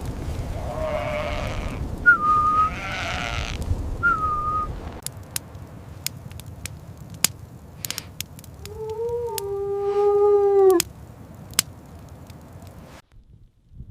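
A sheep bleats once, a long wavering baa of about two seconds, amid scattered sharp clicks. Before it, wind blows with a couple of short whistling tones.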